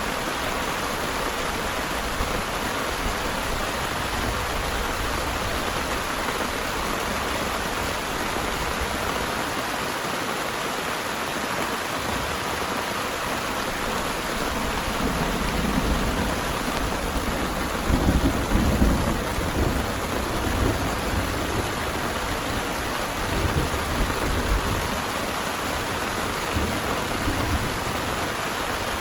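Steady heavy rain, with rolls of thunder rumbling through it, the loudest about two thirds of the way in and weaker rumbles after.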